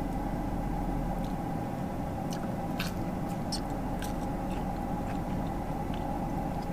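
Someone quietly eating fries dipped in a soft-serve Blizzard, with a few faint clicks and soft chewing sounds over a steady background hum.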